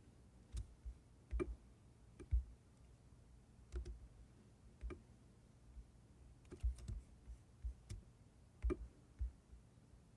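Faint, irregular clicking of computer input while operating software: single sharp clicks and small clusters, with pauses between them.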